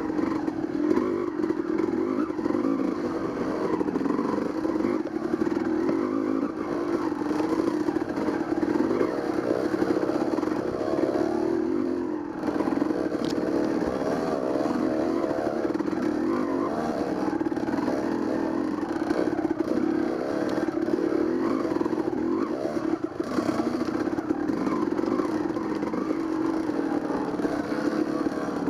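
Dirt bike engine running continuously while riding, its revs rising and falling with the throttle.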